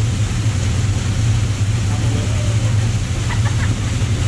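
Quad bike engine running steadily, a constant low drone over a wash of noise.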